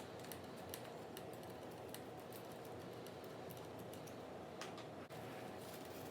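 Light, irregular clicks and taps from handling the vinyl webbing and the aluminum lawn-chair frame, over a steady low hum.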